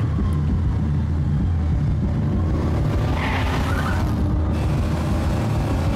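Animated Batmobile's engine sound effect rumbling low and steady, with a brief hiss of higher noise about three seconds in.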